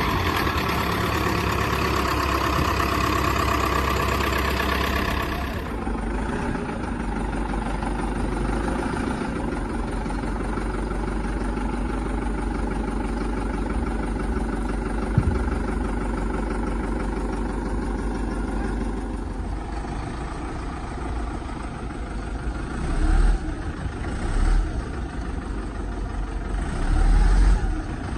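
A wheel loader's diesel engine running just after start-up. It is louder and brighter for about the first six seconds, then settles to a steady idle, with a few brief revs near the end.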